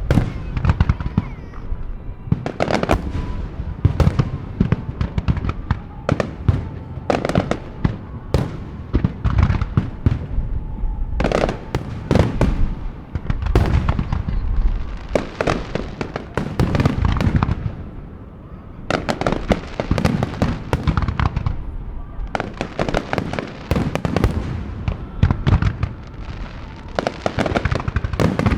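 Aerial fireworks bursting in rapid, overlapping volleys, a dense barrage of booms and crackles typical of a starmine finale, with a short lull about two-thirds of the way through.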